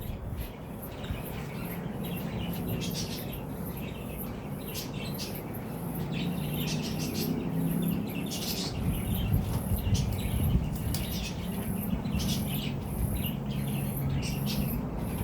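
Birds chirping and tweeting in many short, high calls scattered throughout, over a low steady hum.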